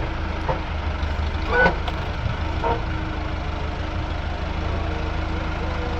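A steady low motor rumble, with a faint steady hum through the middle and a brief voice about a second and a half in.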